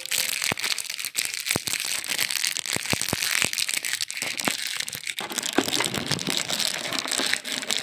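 Crinkling handling noise with many small, irregular sharp clicks.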